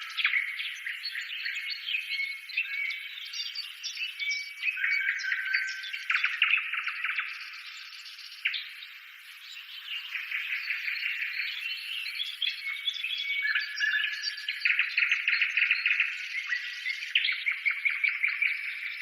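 Birds chirping and trilling, a dense chorus of short, high-pitched overlapping calls and rapid trills.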